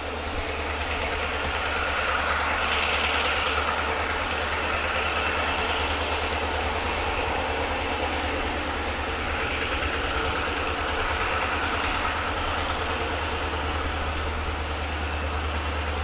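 EMD diesel-electric freight locomotives running as they approach along the rail, a steady low engine drone with rail noise over it.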